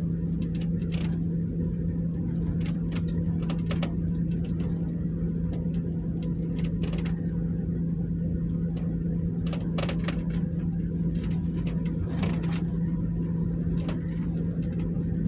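A steady low mechanical hum holding one constant pitch, with scattered light clicks and rattles over it.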